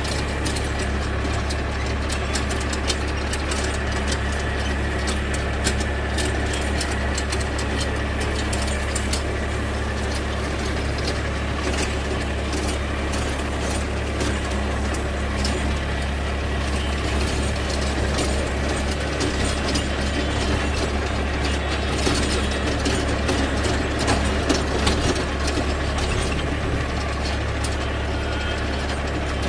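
Force Orchard mini tractor's diesel engine running steadily under load while working a rotavator, a low drone with continuous mechanical clattering and rattling over it. The clatter grows busier for a few seconds in the later part.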